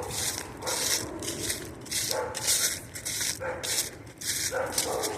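Footsteps crunching on the gravel ballast of a disused railway line at a steady walking pace, about two steps a second.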